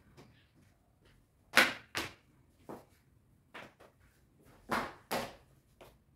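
A series of short, sharp swishes and clacks, about seven in six seconds, the loudest two pairs coming about a second and a half in and again near five seconds: household items handled during entryway and shoe cleaning.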